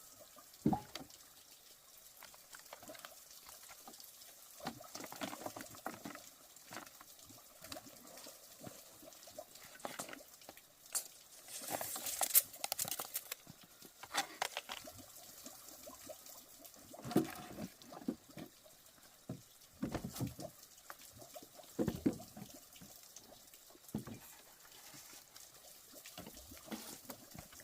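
Irregular knocks and clatter with splashing and pouring of liquid, a longer noisy stretch about eleven seconds in.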